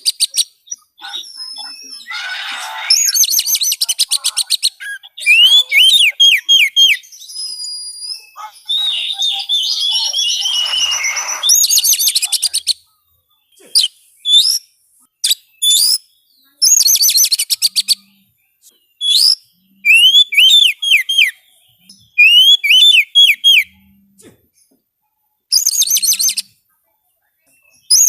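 Oriental magpie-robin (kacer) singing loud phrases of rapid high trills and runs of four or five quick falling whistles, with short pauses between phrases.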